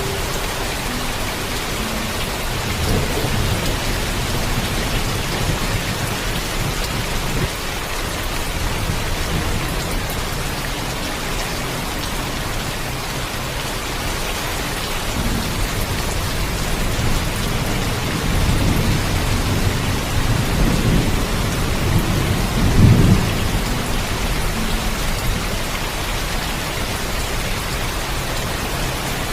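Heavy rain falling steadily, with thunder rumbling low: a swell a few seconds in, then a longer rumble about two-thirds of the way through that peaks near the three-quarter mark.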